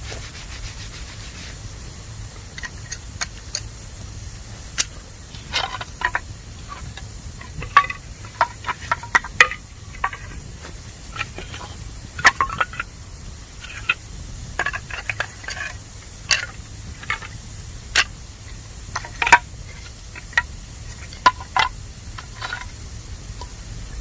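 Bamboo burning in a campfire: irregular sharp crackles and pops over a steady hiss as moisture inside the bamboo steams out. The pops are sparse at first and come thick and fast from about five seconds in.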